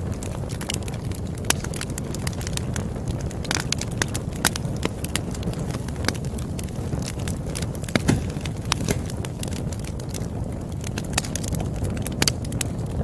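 Wood fire crackling: a steady low rumble of burning with irregular sharp pops and snaps, a cluster of louder pops about eight seconds in.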